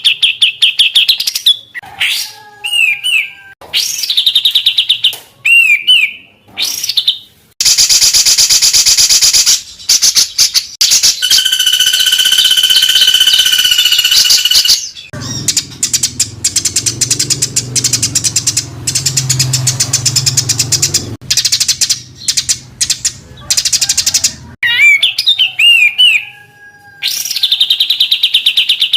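Songbird tutor song of the 'tembakan rapat dan kasar' kind: dense, harsh rapid-fire notes and trills with quick sweeping whistles. In the middle comes a long stretch of fast buzzy rattling, with a faint low hum underneath for a while.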